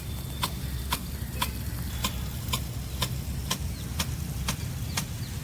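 Sharp, evenly spaced clicks, about two a second, over a steady low rumble.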